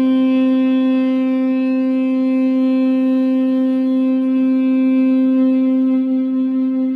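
Saxophone holding one long, steady note.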